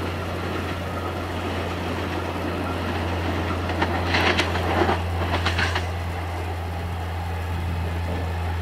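X'Trapolis electric train moving along the track with a steady low hum. About four seconds in comes a short burst of clattering and squealing as its wheels run over the pointwork.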